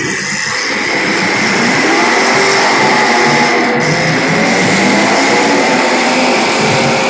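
Several race cars' small engines running together on track, their pitches rising and falling as they rev.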